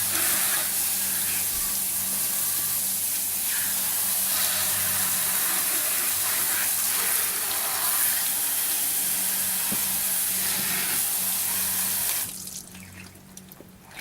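Garden-hose water jetting steadily from a PVC undercarriage washer, a loud even hiss of spray, which cuts off suddenly near the end.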